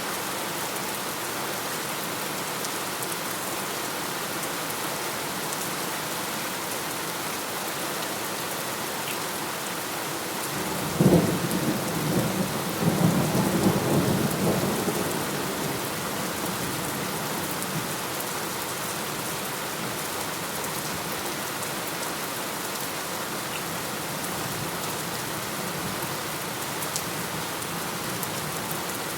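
Steady heavy rain falling, with one thunderclap about a third of the way through: a sharp crack followed by a low rolling rumble that dies away over about five seconds.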